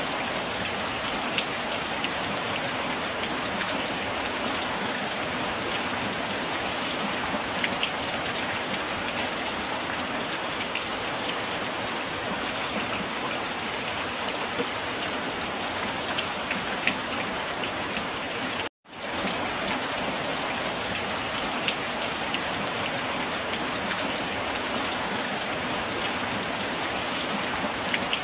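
Steady rain falling, a dense even hiss with occasional sharper drops standing out. About two-thirds of the way through, the sound cuts out for a split second, then resumes.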